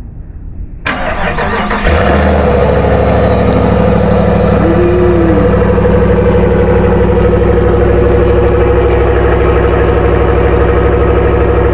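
Ram 1500 pickup's engine being cold-started in icy weather: it cranks about a second in, catches near two seconds and settles into a loud, steady idle.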